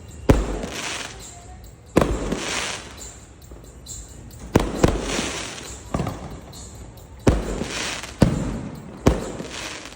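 Aerial firework shells bursting one after another, about eight sharp booms spaced roughly a second apart, each followed by a fading crackle and echo.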